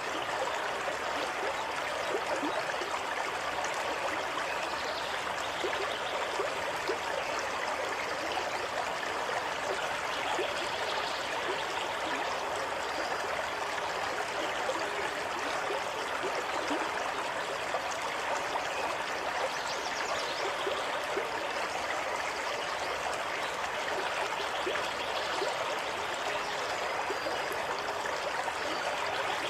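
Running water flowing steadily, an even rushing with a light trickle and no change in level.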